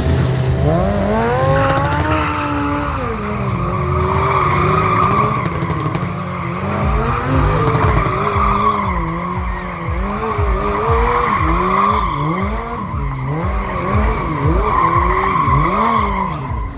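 An engine revving up and down over and over, faster and more jerkily in the second half, over a steady tyre squeal, as in a burnout.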